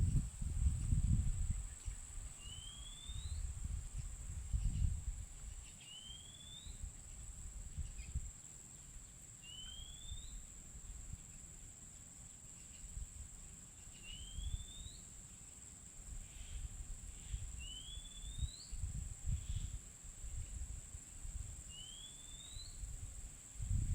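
A bird repeats a single short rising whistle six times, about every three to four seconds, over a steady high-pitched hum, with patches of low rumbling.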